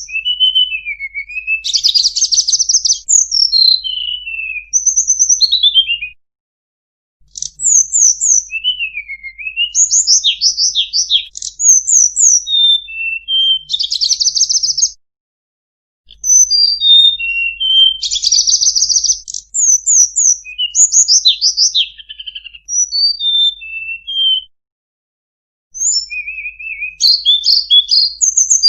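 Song of a tledekan gunung, an Indonesian songbird: rapid high chirps, quick falling and rising sweeps and buzzy trills in long phrases of several seconds, broken by three brief silences.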